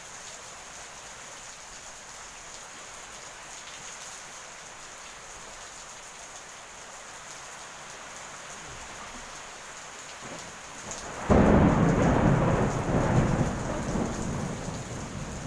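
Steady heavy rain, then about eleven seconds in a sudden loud clap of thunder that rolls on as a long rumble, slowly dying away.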